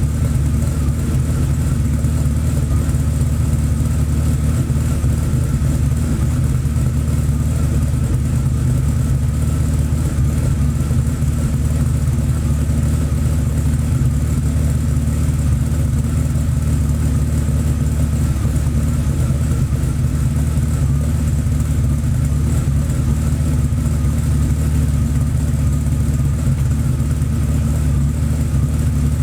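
BMW 850 (E31) V12 idling steadily while warming up after a cold start.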